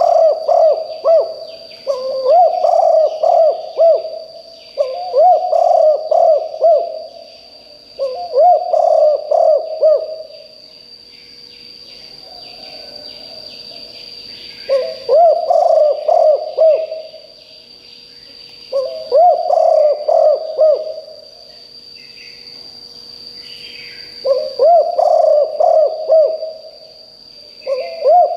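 Spotted dove cooing in loud phrases of about two seconds each, repeated some eight times with short pauses between them. Behind it are a steady high whine and faint chirps of other birds.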